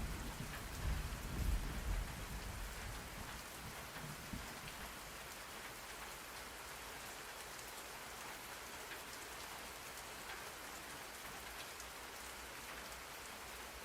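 Steady rain on a surface, with a low rumble of thunder dying away over the first couple of seconds.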